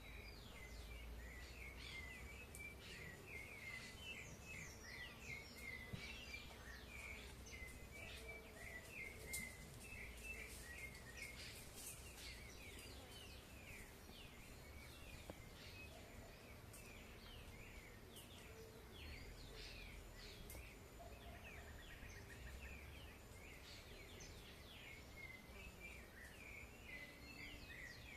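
Birds chirping: a faint, continuous chatter of many quick, short notes, over a low background rumble.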